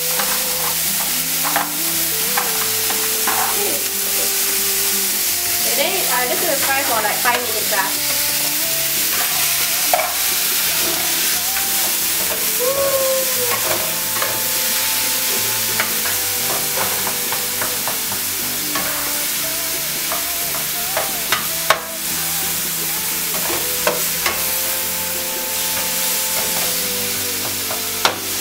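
Chopped sausage sizzling as it fries in hot olive oil in a nonstick pan, stirred with a plastic spatula, with a few sharp clicks of the spatula against the pan.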